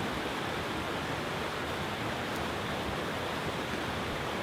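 Fast-flowing forest stream rushing and cascading over stones, a steady, even rush of water.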